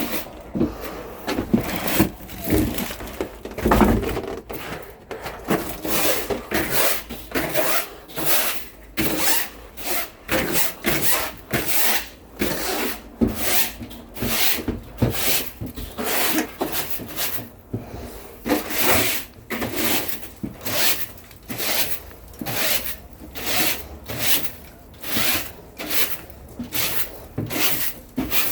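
Regular rhythmic scraping strokes, about one and a half a second, keeping up the same even pace throughout.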